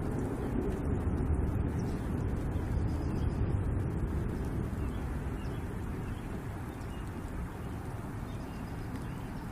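Low thunder rumbling, strongest in the first few seconds and slowly dying away.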